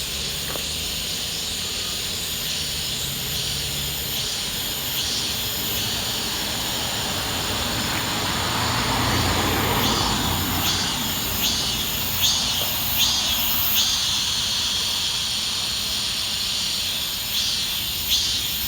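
Insects chirping in a steady outdoor chorus. A low rumble swells and fades around the middle. From about halfway on, a sweeping chirp repeats roughly once a second.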